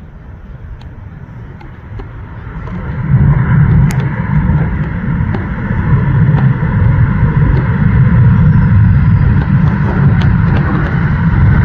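Jet engines of a just-landed Airbus A350 airliner, their noise swelling sharply about three seconds in and holding loud, a deep rumble with a hiss over it.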